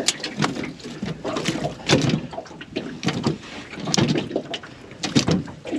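A freshly landed grinner (lizardfish) thrashing in a small aluminium tinny, making a run of irregular knocks and splashy rattles.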